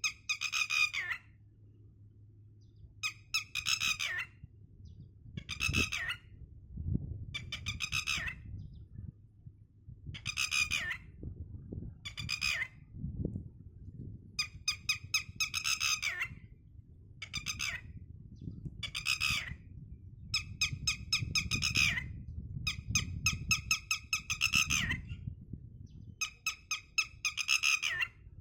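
A bird squawking over and over, each call about a second long and buzzy, about fifteen calls with short gaps between them, over a low rumble.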